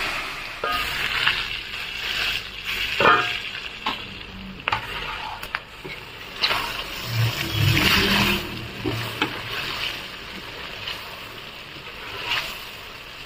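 Chicken, onions and dried red chillies sizzling in a kadai as a metal slotted spatula stirs them, with scattered clicks and scrapes of the spatula against the pan.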